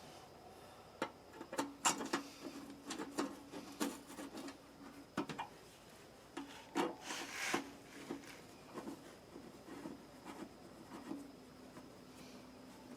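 Scattered clicks, knocks and rubbing of parts being handled while an electric water heater is put back together, with a longer scrape about seven seconds in.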